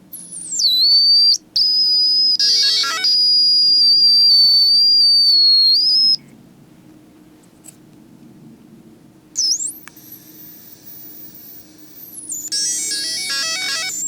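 Failing hard disk drive making an abnormal high-pitched whistling whine. The whine sweeps down in pitch, holds steady for several seconds with a burst of rapid chirping, and cuts off about six seconds in. It returns near the end with another quick sweep and a longer burst of chirping.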